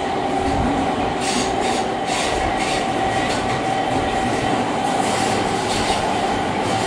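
Inside a moving passenger train: steady running noise with a constant whine, and irregular clicks of the wheels over rail joints, closest together in the first half.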